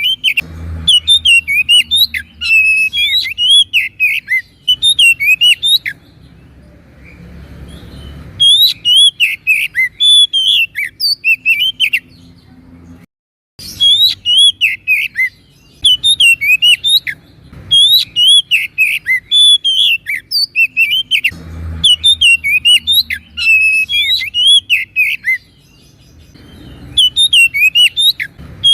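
Oriental magpie-robin (kacer) singing energetically: long runs of rapid, sweet whistled and chattering notes that rise and fall, broken by a few short pauses, over a faint low hum.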